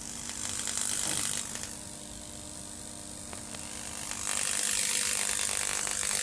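High-voltage arc from a ZVS-driven flyback transformer crackling and hissing on a sheet of glass, over a steady electrical hum. It swells loud about half a second in, eases off, then grows loud again from about four seconds in.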